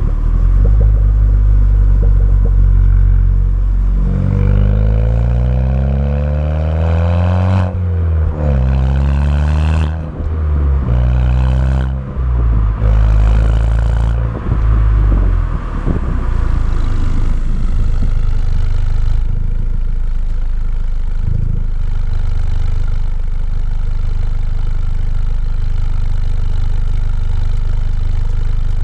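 Car engine through a Milltek cat-back race exhaust, heard from outside: running at a low steady note, then revved several times in the middle, the pitch climbing and dropping, before settling back to a steady idle for the last half.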